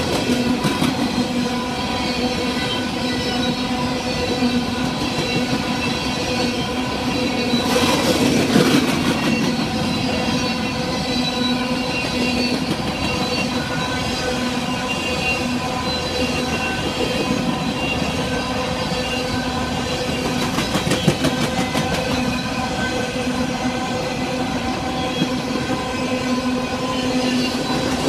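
Freight train of open-top hopper cars rolling steadily past, wheels clacking over rail joints in clusters of sharp clicks, with a steady ringing tone running under the rolling noise.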